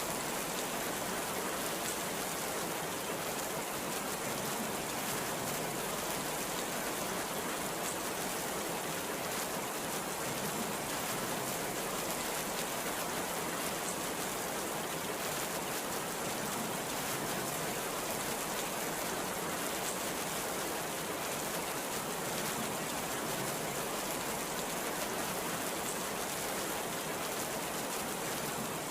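Heavy rain falling steadily, an even unbroken wash of sound with no thunder.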